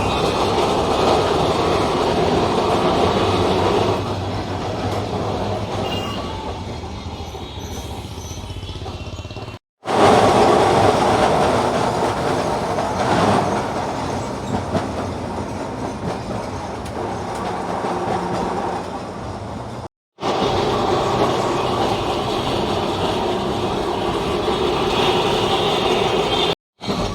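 Electric street tram running on its rails, a steady rumble and rattle of wheels on track. Several short takes are joined by brief dead-silent cuts about 10, 20 and 27 seconds in.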